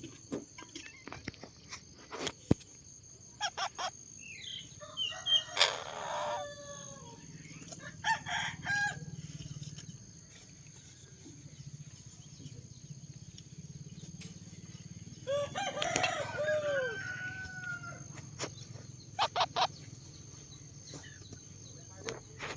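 Bird calling: a few drawn-out calls lasting up to two or three seconds each, spaced several seconds apart, with scattered clicks between them.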